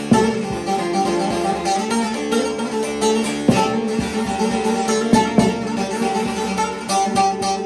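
Divan bağlama with a mahogany bowl being played: quick runs of picked notes over ringing strings, easing in the middle to a few strong strokes and held notes before the fast picking returns near the end.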